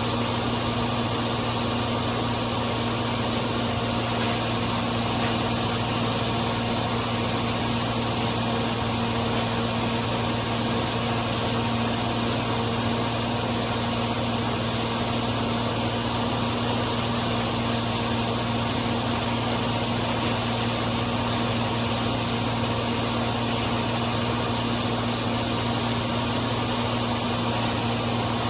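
John Deere 4230 tractor's six-cylinder diesel running the New Holland 355 grinder-mixer's hammer mill through the PTO: a steady, unchanging drone with a low hum under a wide rushing noise.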